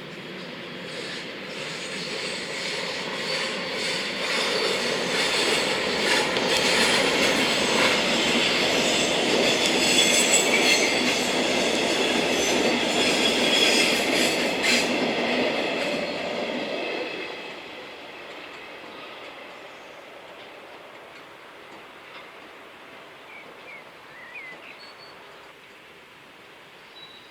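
Train passing on the track, its wheels squealing with several high steady tones over the rumble and a few clicks. It builds over the first few seconds, is loudest for about ten seconds, then fades away about seventeen seconds in.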